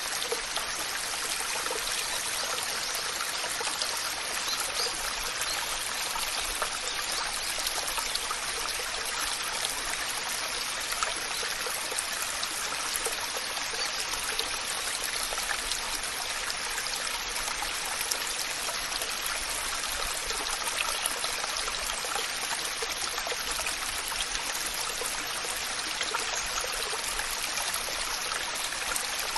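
Waterfall: falling water rushing and splashing in a steady, even hiss, with little low rumble.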